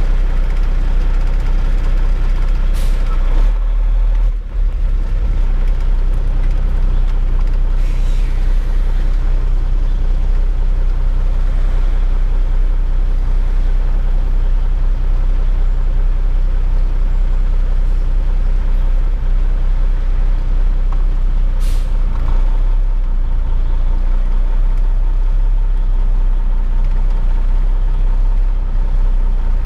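Heavy truck's diesel engine running under way with its 18-speed transmission, the engine note dropping twice as gears are changed. Two short hisses of air sound, one a few seconds in and one about two-thirds through.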